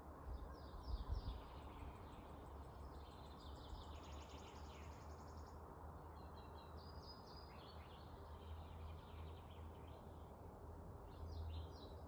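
Songbirds singing faintly in spring woodland: rapid trilled phrases and chirps, several overlapping, busiest in the first half and again near the end. A low rumble runs underneath, louder in short gusts about a second in.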